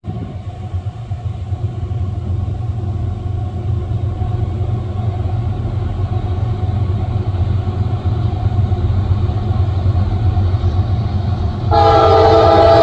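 Diesel locomotives of a loaded coal train approaching, a steady low rumble slowly growing louder. About a second before the end, the locomotive's air horn comes in suddenly, loud and sustained.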